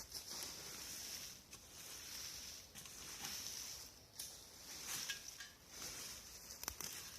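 Scattered rustles, crackles and light footsteps in leaf litter and fallen branches, over a steady high hiss.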